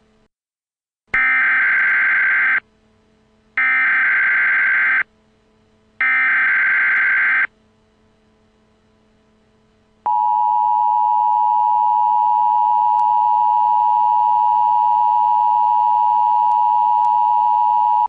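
Emergency Alert System tones: three bursts of SAME digital header data, each about a second and a half long and about a second apart, then about ten seconds in the two-tone EAS attention signal (853 and 960 Hz), held steady for about eight seconds.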